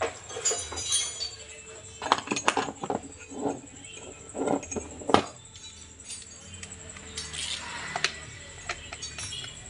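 Metal hand tools clinking and knocking against engine parts in a run of sharp, irregular knocks, the loudest about five seconds in, then fainter clinks.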